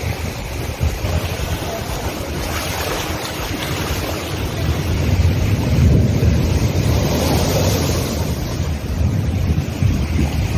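Storm wind rumbling on the microphone over the wash of rough sea and waves, growing louder about halfway through.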